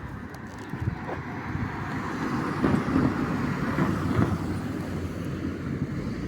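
Road traffic: a car passing on a nearby road, loudest in the middle.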